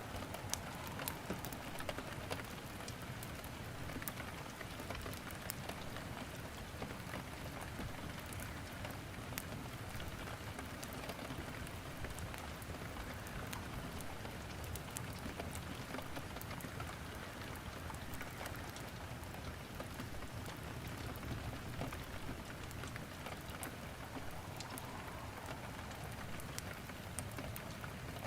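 Steady rain falling, with wood crackling in a fireplace: scattered sharp pops over the even hiss, more frequent in the first few seconds.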